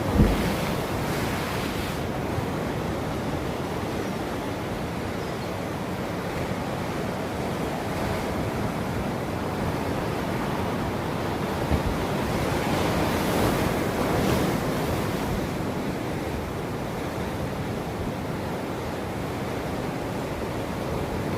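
Ocean surf washing steadily onto a shore, with a wave building and breaking louder about two-thirds of the way through. Two short low thumps, one right at the start and one just past the middle, are wind buffeting the microphone.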